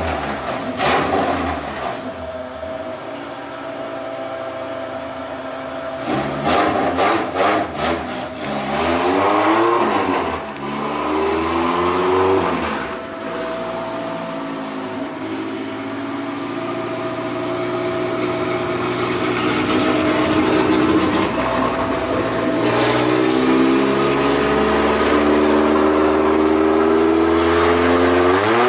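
Honda B20 VTEC four-cylinder on open headers, running on a chassis dyno: it is revved up and down a few times, with a short run of sharp cracks about six to eight seconds in. From about halfway it climbs steadily in pitch in a long pull, peaking at the very end.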